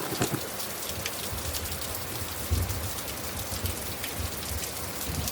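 Steady rainfall, an even hiss of drops on surfaces. The last of a thunder roll dies away at the start, and faint low rumbles come now and then.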